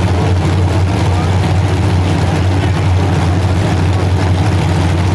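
Several unmuffled demolition derby car engines running together: a loud, steady low rumble.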